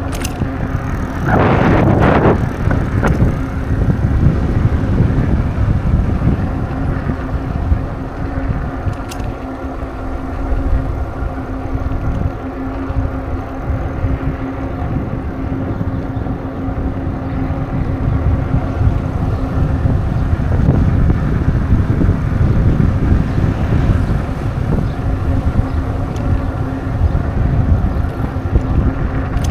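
Steady road-travel noise: a low rumble with wind on the microphone and a constant hum throughout, and a louder rushing surge about a second and a half in.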